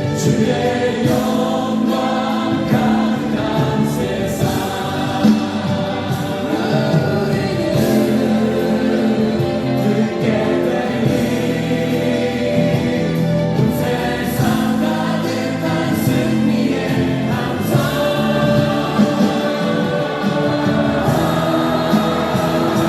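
A choir singing a Christian worship song with instrumental accompaniment.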